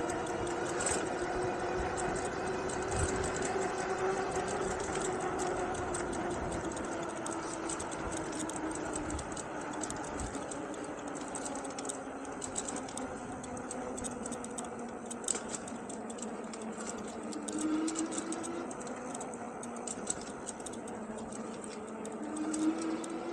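Electric hub motor of an Engwe Engine Pro 750 W e-bike whining under way, with several tones that slowly drift down and then rise again as the speed changes, over tyre and wind noise and a few rattling clicks.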